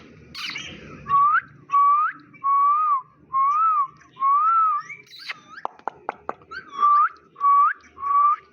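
A series of eight short whistled notes, each a single clear tone that rises or arches, spaced about two-thirds of a second apart. A quick run of sharp clicks comes about halfway through.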